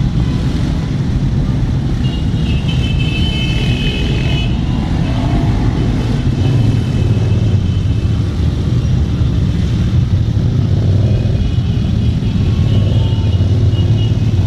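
Motorcycle engines running: a steady, loud low rumble.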